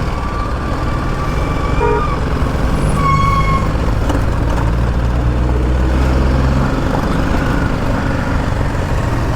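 Motorcycle riding in heavy highway traffic: a steady engine and road rumble. A vehicle horn sounds for over a second near the start and again briefly about three seconds in.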